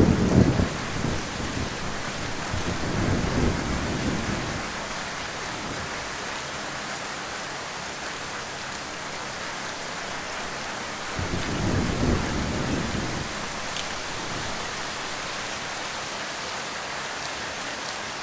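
Heavy rain falling steadily, with thunder rumbling low in the first few seconds, dying away, and rolling again briefly about eleven seconds in.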